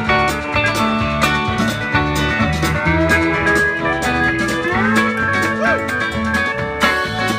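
Live country-rock band playing an instrumental break led by a pedal steel guitar over drums and bass, its notes sliding up in pitch about five seconds in.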